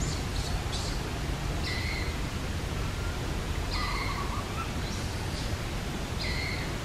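A bird in the background repeating the same short call about every two seconds, a high note dropping to a lower one, three times, over a steady low rumble.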